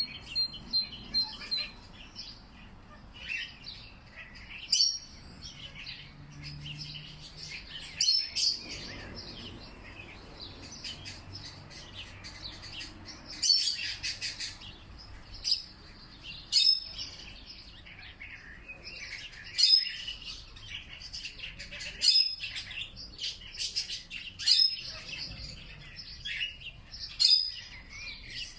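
Several birds chirping and calling together, with a louder, sharp call every two to three seconds over a continuous background of softer chirps.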